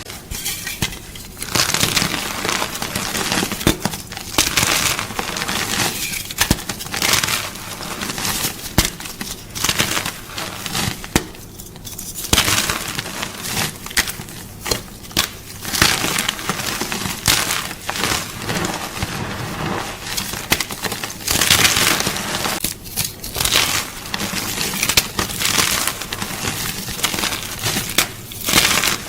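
Gym chalk (magnesium carbonate) being crunched: a dense, irregular run of dry crunches and crackles, broken by a few short pauses.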